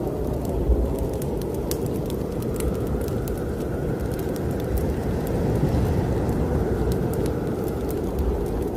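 Snowstorm wind as a dense low rush that swells and eases, loudest about halfway through. Crackling fireplace fire is mixed in, with many small sharp pops and snaps scattered over it.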